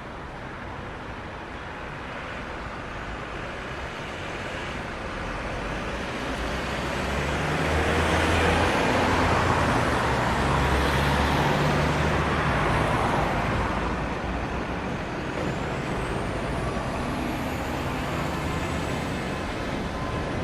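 Road traffic: a motor vehicle passes, a rushing noise with a low engine hum that swells to its loudest about halfway through and then fades.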